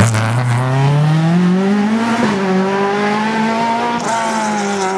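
Rally car engine at full throttle on a stage: the revs climb for about two seconds, dip briefly at a gear change, then hold high and slowly fall near the end.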